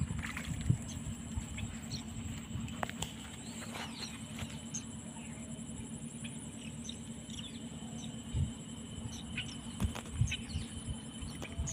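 Birds chirping now and then, short high calls scattered throughout, over a steady low rumble and a faint steady high-pitched tone.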